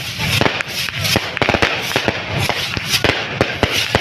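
Fireworks going off in rapid, irregular succession: many sharp bangs and cracks, several a second, over a continuous crackling rumble.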